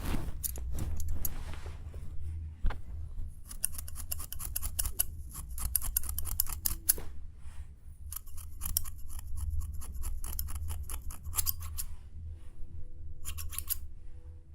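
Ear pick scratching close against a microphone's ear: rapid crisp clicks and crackles in three runs of a few seconds each, over a low steady hum.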